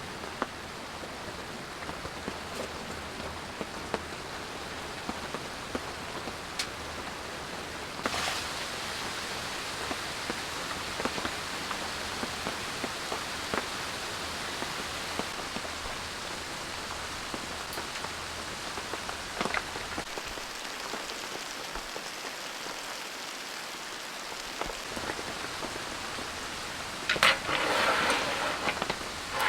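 Steady rain falling, with scattered sharper single drop impacts. A louder spell of knocks and rustling comes near the end.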